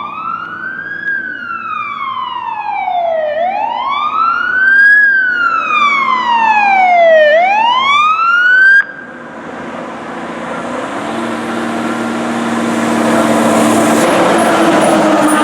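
Fire engine siren wailing, rising and falling slowly about every three and a half seconds, then cutting off abruptly about nine seconds in. After it, the truck's engine and road noise build to a loud rush.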